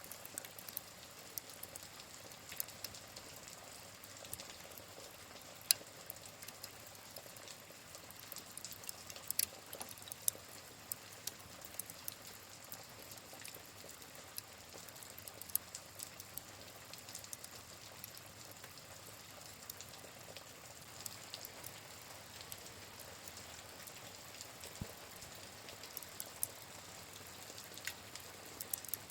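Steady rain hiss mixed with a crackling fireplace, with sharp, irregular pops and snaps from the burning wood over the rain.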